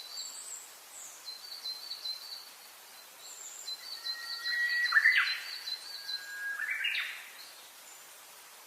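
Birds singing: a high, quick chirping repeated through most of the clip, with two louder phrases of rising whistled notes about halfway through.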